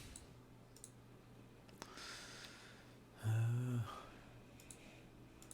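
A man sighs, then gives a short low hum a little over three seconds in, the loudest sound; a few faint clicks of a computer mouse fall around it.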